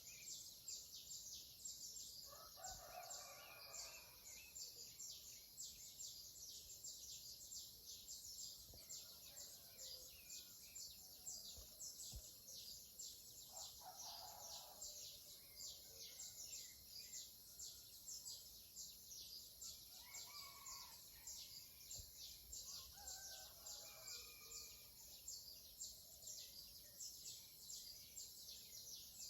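Faint dawn countryside chorus: rapid high-pitched chirping that never stops, with a rooster crowing four times in the distance.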